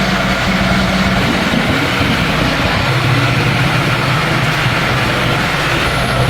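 Excavator's diesel engine running steadily at idle, its low tone settling slightly lower about two seconds in.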